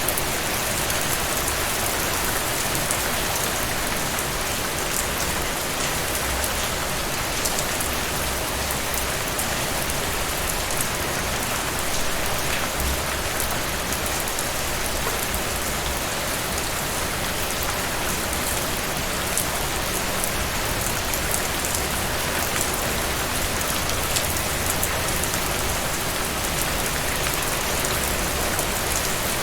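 Heavy rain falling steadily, a dense even hiss with scattered drop patter.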